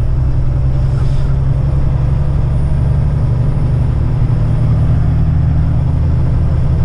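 Heavy-haul semi-truck's diesel engine droning steadily at a constant pitch while the truck is driven, with road noise.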